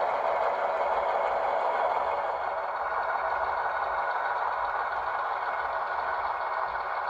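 Diesel locomotive engine running steadily, with a light rattle.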